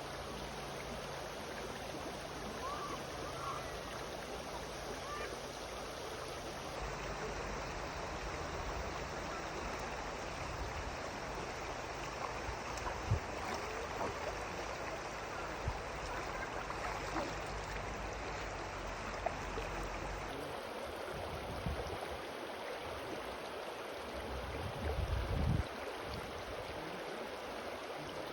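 Steady rush of a valley stream's water, cut between a few takes, with a couple of short knocks and a brief low rumble near the end.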